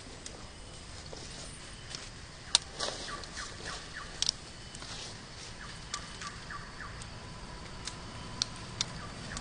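A bird calling in quick runs of short falling notes over an outdoor background, with a few sharp clicks, the loudest about two and a half seconds in.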